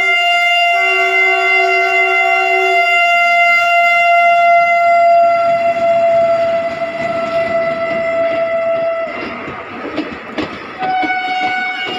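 Electric train's horn sounding one long, loud chord of several tones for about nine seconds, sagging slightly in pitch, then wheels rattling over the rail joints as the train passes, with a short second horn blast near the end.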